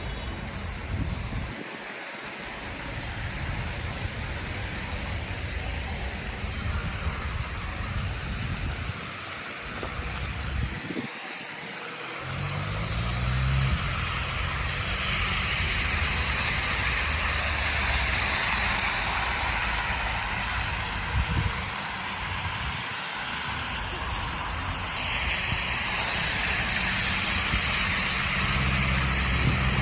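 Wind buffeting the microphone over city street traffic. About twelve seconds in, a vehicle engine speeds up with a rising pitch, and later a steady hiss of passing traffic comes in.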